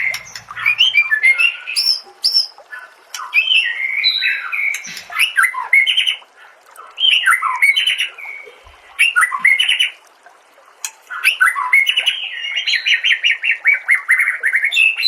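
White-rumped shama (murai batu) singing a loud, varied song of whistled and chirped phrases with short pauses between them, ending in a fast run of repeated notes.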